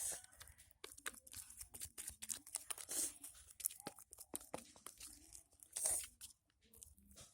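Homemade glue slime being worked by hand or spoon, giving a dense run of small, irregular sticky crackles and pops as it pulls and squishes.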